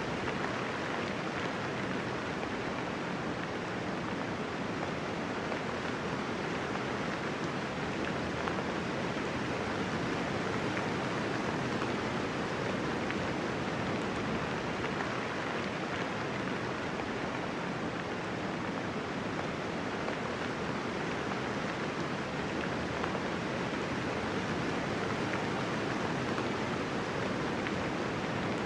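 Steady, even rainfall with no thunder, an unbroken hiss of falling rain.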